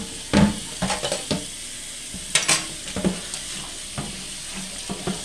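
Kitchen clean-up after filleting fish: scattered knocks and clatter of utensils and items being handled on a counter, over a steady hiss.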